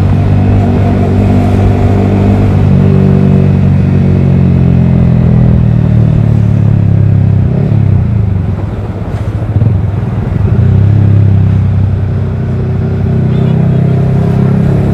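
Yamaha R15 V3's single-cylinder engine through a Daytona Evolution aftermarket exhaust, running steadily while ridden in third gear. About eight seconds in the throttle eases off, and a sharp exhaust pop comes about a second later as it picks up again; this exhaust pops on throttle lift at low revs.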